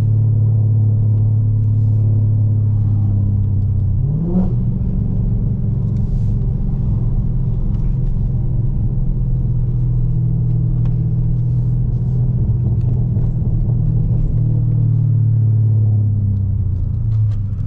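Dodge Charger Scat Pack's 392 HEMI V8 running through catless midpipes and a race exhaust, a steady low rumble as the car is driven gently while the engine warms up. The revs rise briefly about four seconds in, then settle again.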